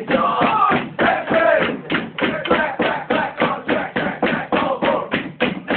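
Voices chanting in a quick, even rhythm, about five beats a second, with percussive hits on the beat.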